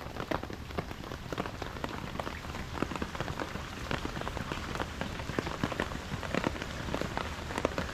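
Steady rain falling, an even hiss dotted with many distinct drop hits.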